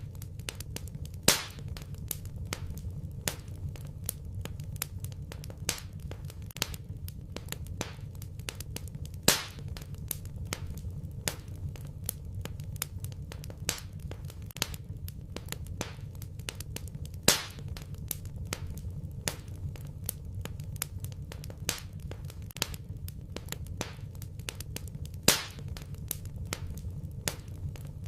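Wood fire burning in a fireplace, crackling steadily with many small snaps over a low, steady rumble, and a louder pop about every eight seconds.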